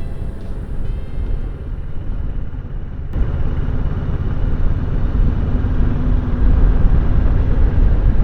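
Kawasaki ER-6F 650 parallel-twin motorcycle running at road speed, a steady low rumble with wind noise. It comes up sharply about three seconds in, as faint background music fades out.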